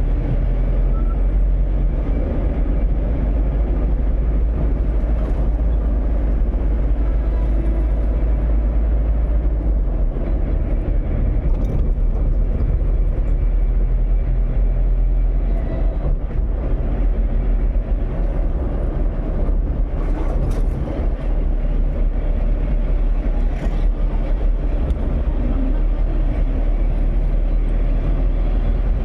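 Steady low rumble of a moving vehicle, running without letup.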